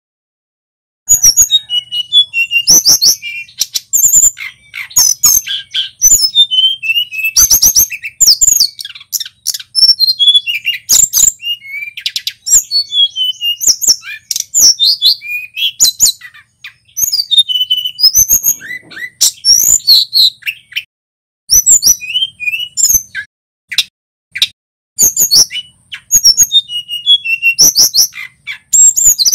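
Male tledekan gunung singing a loud, rapid, varied song of quick chirps, fast trills and whistled notes, starting about a second in and going on with only short pauses.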